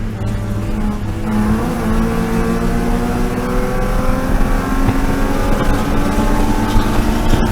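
BMW E36 M3 race car's straight-six engine. It runs softer for the first second or so, then comes back on full throttle and pulls steadily, its pitch rising slowly as it accelerates.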